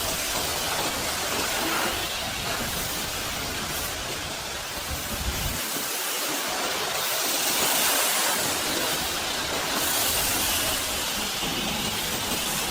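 High-pressure washer spraying water onto a mud- and ice-caked truck: a steady hissing jet that swells and eases slightly as the spray moves.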